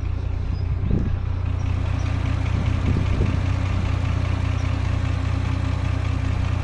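Porsche Macan S twin-turbo V6 idling steadily. The customer reports a knock from this engine, which the mechanic takes for a connecting-rod knock.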